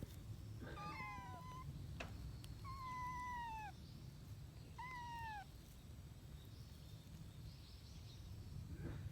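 A kitten meowing three times, each meow a high call that falls in pitch at its end, over a steady low background rumble.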